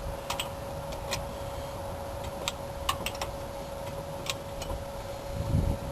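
Sparse, irregular metal clicks from a wrench tightening the rear wheel's lug bolts one last time, about seven clicks in all.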